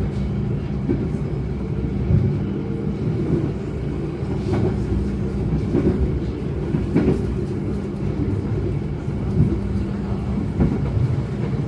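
Passenger train running along the track: a steady low rumble with a faint hum and a few scattered knocks from the wheels.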